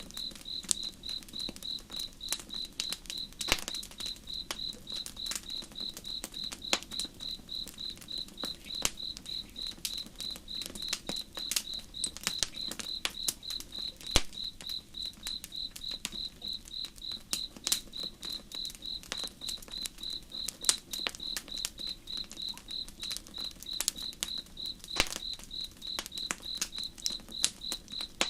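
Campfire crackling with scattered sharp pops, over a cricket chirping in an even, steady pulse of two to three chirps a second, and a low steady rush of river water.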